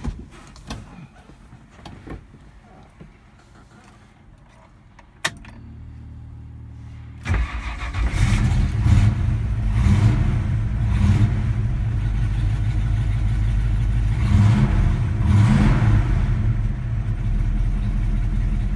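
A 1968 Ford Mustang's 390 cubic-inch V8 being started, heard from inside the cabin. After a few quiet seconds and a click, the starter cranks for about two seconds before the engine catches suddenly. It is revved several times, then settles into a steady idle.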